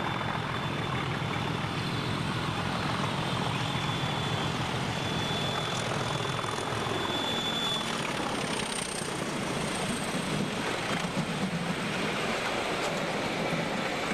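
Train running: a steady engine drone and rumble, with a thin high whine over it through the first half.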